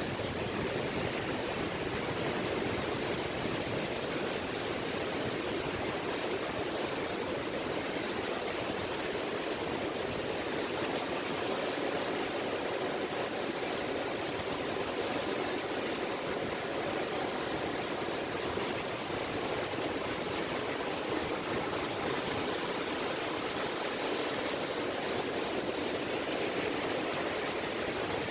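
Small waves lapping on a beach, a steady wash of water with no single breaker standing out.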